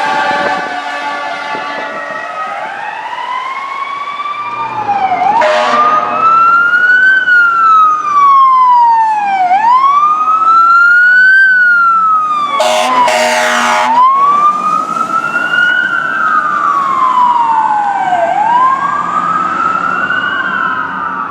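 Fire engine sirens: a growling siren with many overtones winds down over the first couple of seconds, then an electronic wail rises and falls slowly, about every four seconds. The truck's air horn blasts for about a second and a half midway, with a shorter blast a few seconds in.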